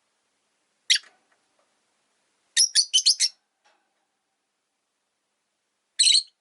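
Rosy-faced lovebird giving shrill, high-pitched chirps: a single call, then a quick run of about five, then another single call near the end.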